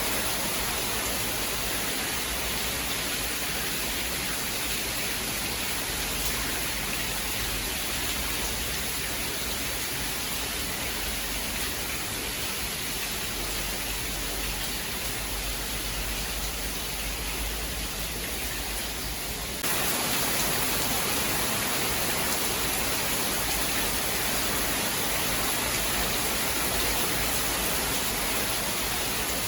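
Steady heavy rain falling, an even wash of noise with no distinct drops or thunderclaps; the level steps up slightly and abruptly about twenty seconds in.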